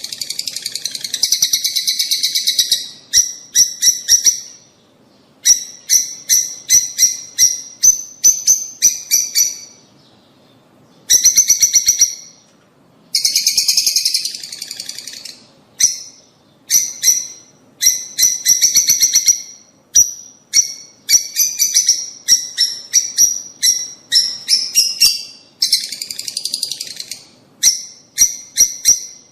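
Lovebirds chattering: rapid runs of sharp, high-pitched chirps in bursts of a second or two, broken by short pauses.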